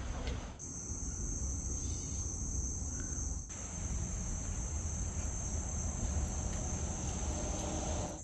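Steady high-pitched chorus of crickets, over a low rumble.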